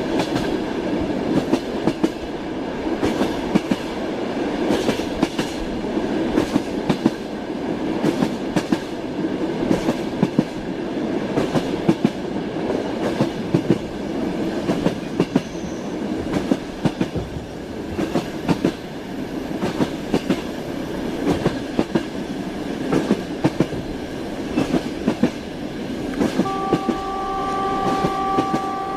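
Train wheels clattering over rail joints in an irregular clickety-clack over a steady rolling rumble. Near the end a train horn sounds one steady held tone.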